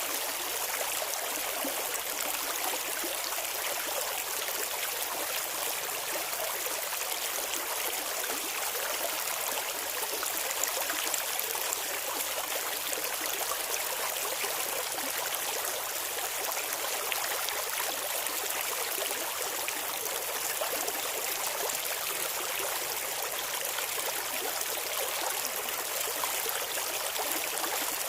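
Clear river water flowing and babbling over stones, a steady splashing hiss with no pauses.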